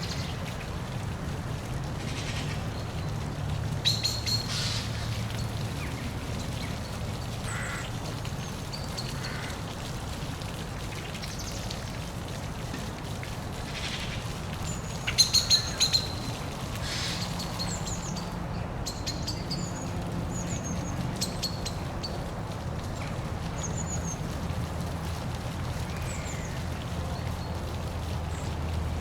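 Steady rush of a park waterfall with birds chirping over it in short, scattered high calls. A quick run of sharp clicks comes about halfway through.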